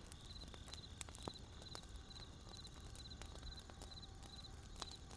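Wood campfire crackling with scattered sharp pops, over crickets chirping in short regular trills about twice a second and a low steady rumble.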